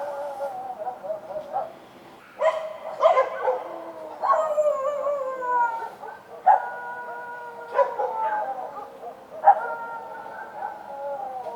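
Street dogs barking and howling, each sharp bark leading into a long howl that slides down in pitch, about four times over the stretch.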